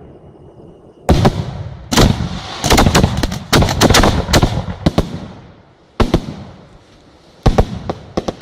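Aerial fireworks bursting: a quiet first second, then sharp booms about one, two and six seconds in. Rapid runs of crackling shots follow the booms, most densely in the middle and again near the end.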